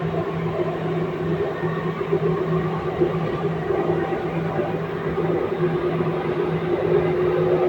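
Steady running noise heard inside the passenger car of a Delhi–Meerut RRTS (Namo Bharat) rapid train: an even hum and rumble with no sharp sounds.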